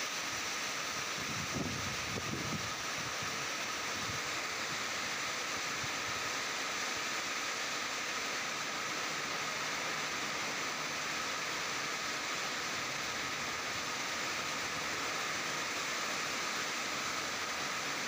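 Steady rain falling, an even hiss, with a few brief low rumbles about two and four seconds in.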